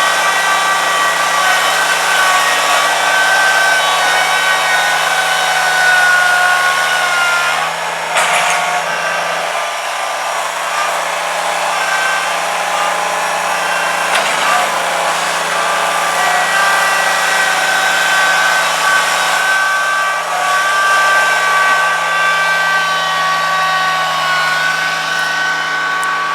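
A motor running steadily and loudly, its pitch drifting slightly up and down.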